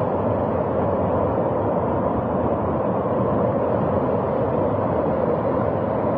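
Steady rushing of fast-flowing floodwater, an even noise with no breaks or distinct events.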